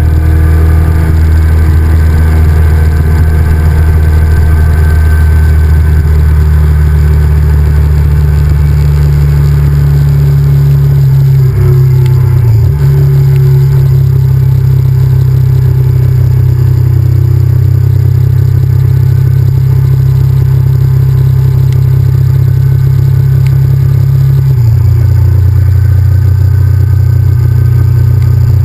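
Honda VTR1000F's 90-degree V-twin engine running loud and steady while the motorcycle is ridden. The engine note shifts briefly about twelve seconds in and changes again near twenty-five seconds.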